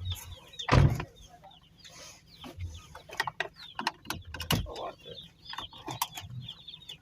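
Birds chirping in quick, repeated falling calls, mixed with scattered clicks and knocks and one loud thump about a second in.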